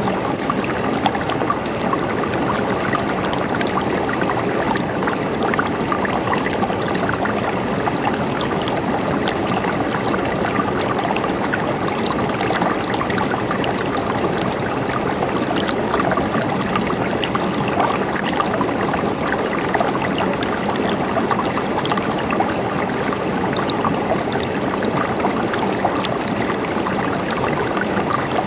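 Flowing stream: a steady rush of water with small trickles and splashes.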